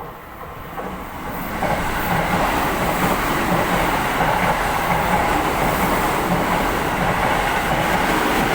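Seibu 30000 series electric train running through a station at speed without stopping. The noise swells over the first couple of seconds as it arrives, then holds as a loud, steady rumble of wheels on rail while the cars go past.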